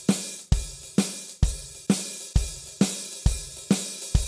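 Drum kit playing a shuffle groove: a shuffled hi-hat pattern, with bass drum and snare drum alternating on the beats at about two strokes a second.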